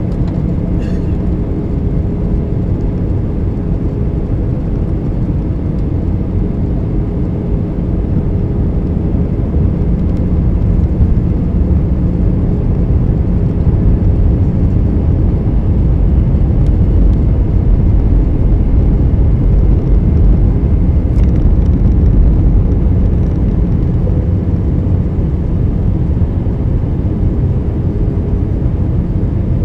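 Steady rumble of an Airbus A319 cabin in flight on approach, airflow and engine noise heard from a window seat, with a faint low hum. It swells somewhat about a third of the way in and eases back near the end.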